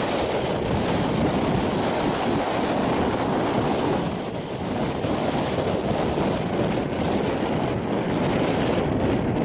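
Storm wind buffeting the microphone, with a steady rumble beneath it that dips briefly about four seconds in.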